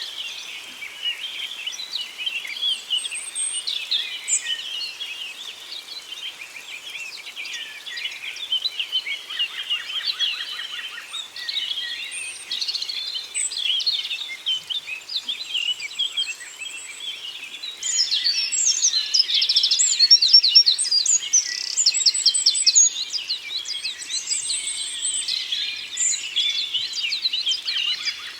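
A chorus of many songbirds singing and chirping at once, with several overlapping songs and fast trills, louder and busier from a little past the middle.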